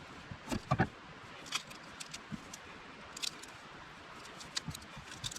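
Scattered light clicks, taps and knocks of cooking gear and food being handled during meal prep, with a small cluster of knocks about half a second in and sparse ticks after.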